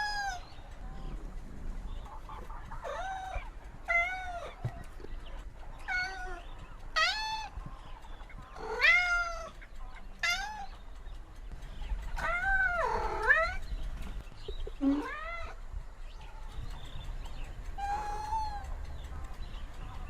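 A cat meowing over and over: about ten separate meows, some rising and some falling in pitch.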